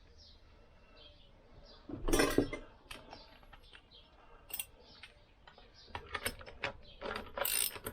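Metal tools clattering, loudest about two seconds in, then a ratchet wrench clicking in short strokes near the end as a nut on a Lambretta scooter engine is tightened down.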